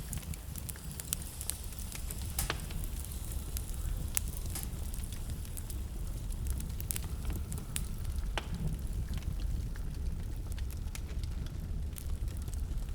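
Wood fire burning in a fireplace, crackling with frequent, irregular sharp pops over a steady low rumble.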